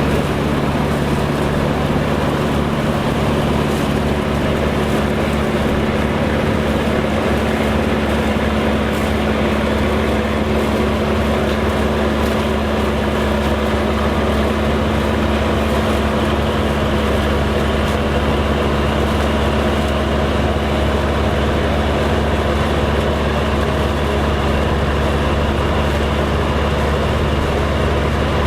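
Engine of vintage farm harvest machinery running steadily at a constant speed, a deep, unbroken drone.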